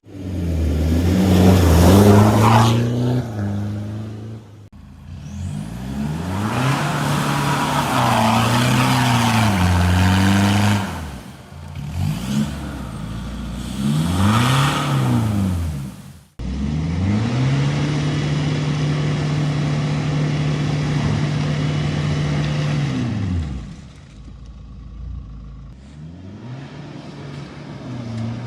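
Toyota Prado 150's 3.0 turbodiesel with a Stage 1 tune and straight-pipe exhaust, revving up and down several times, then held at steady revs for several seconds before dropping back to a low idle near the end.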